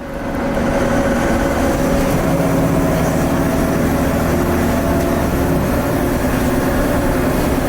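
Cummins ISL diesel engine of a 2010 Nova Bus LFS articulated bus running steadily, a low rumble with steady whining tones over it, typical of this bus's pronounced turbo whine.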